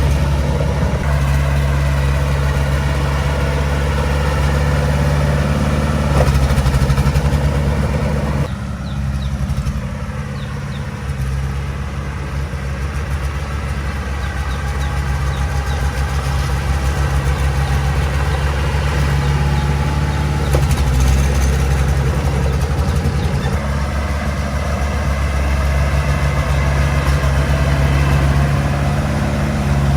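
Heavy-equipment diesel engine running steadily. It eases off about eight seconds in, then slowly builds back up.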